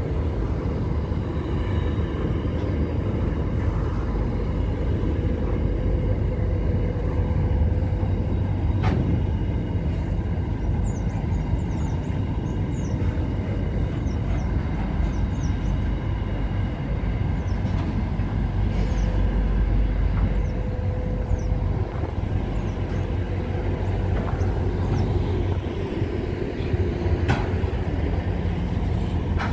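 Intermodal container freight train rolling past: a steady rumble of wagon wheels on the rails, with an occasional sharp knock, about a third of the way in and again near the end.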